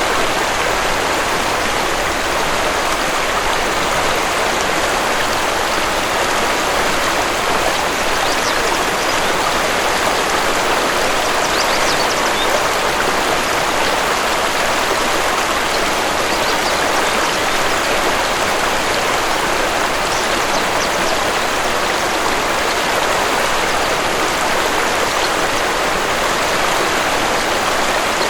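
Waterfall rushing, a steady, even water noise that does not change, with a few faint high bird chirps now and then.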